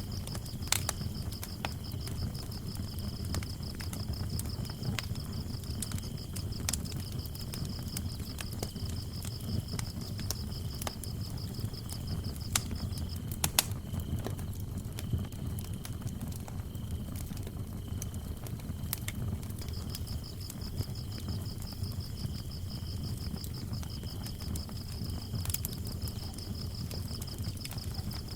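Wood fire burning with a low rumble and scattered crackles and pops, under the steady trilling of crickets; the higher cricket trill drops out for several seconds around the middle.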